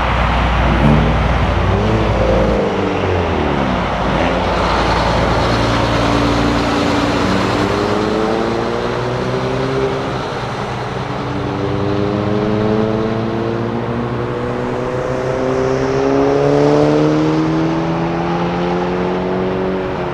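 Heavy truck engine pulling away and accelerating through the gears, its pitch climbing and then dropping back at each shift, over steady road noise. A vehicle passes by in the first few seconds.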